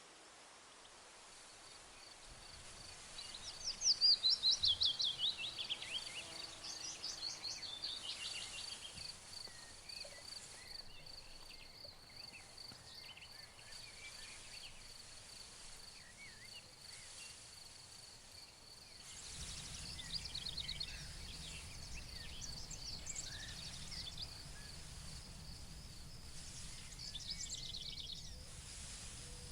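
Meadow ambience: songbirds sing short, quickly falling trilled phrases, the loudest about four seconds in, over a steady high pulsed insect trill. A low rush like wind through grass picks up about two-thirds of the way through.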